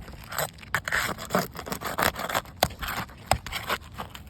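Small crowbar scraping and prying under an asphalt roof shingle in a run of rough strokes, with a few sharp clicks, as the brittle, hail-damaged shingle tears.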